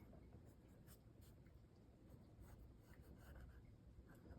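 Faint scratching of a pencil drawing on paper, in short strokes.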